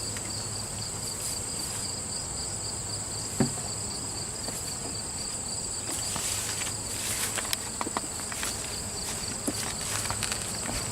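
Insects trilling steadily in two high tones over a low hum from the open honey bee hive, with a single knock about three and a half seconds in and light clicks later on as the hive is worked.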